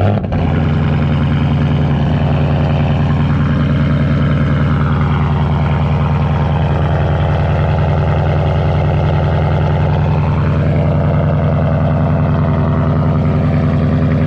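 Straight-piped 5.0-litre V8 of a 2019 Ford Mustang GT catching on a cold start right at the beginning with a brief flare, then running at a loud, steady fast idle.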